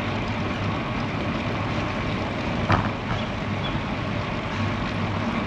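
Wind rushing over the microphone while riding a road bike into a headwind, a steady noise, with one short click about two and a half seconds in.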